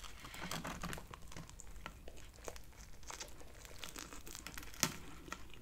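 Faint crisp crackling and crunching of a toasted garlic-butter sub roll as a chopped cheeseburger sub is bitten into and chewed, with one sharper crack near the end.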